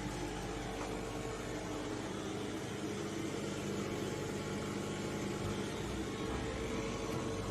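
Steady machine hum with a hiss and a few faint constant tones, unchanging throughout.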